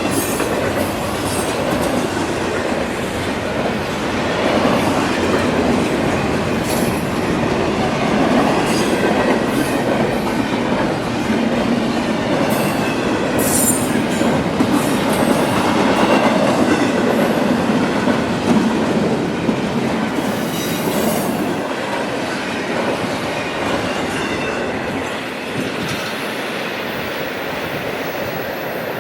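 CSX freight train cars rolling past, wheels clattering steadily on the rails, with several brief high wheel squeals, the sharpest about halfway through.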